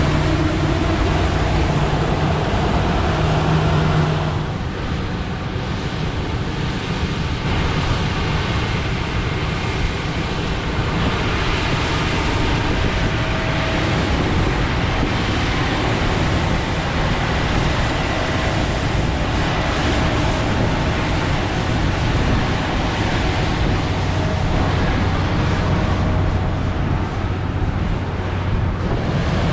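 Heavy diesel harvest machinery (combines and a tracked tractor with a grain cart) running steadily. A strong low engine tone fades about four seconds in and the overall sound drops a little, and a lower steady engine tone comes up again near the end.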